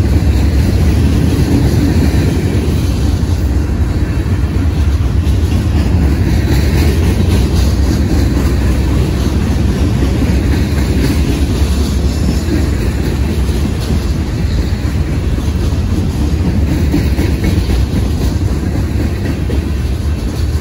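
Freight cars of a Union Pacific manifest train rolling steadily past: a loud, even rumble of steel wheels on the rails from loaded centerbeam lumber flatcars.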